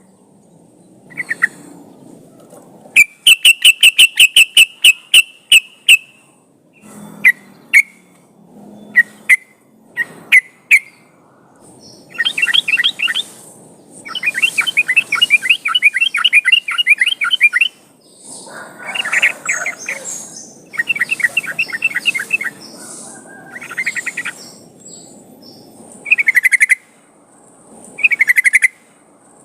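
Yellow-vented bulbul (trucukan) calling: loud bursts of quickly repeated chattering notes and short bubbly phrases, each one to four seconds long, with short pauses between them.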